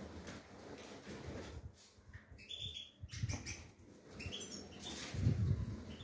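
Small cage birds chirping a few times in quick runs of short notes that step up in pitch, over low bumping and rustling as a hand fits a plastic water drinker onto the wire cage.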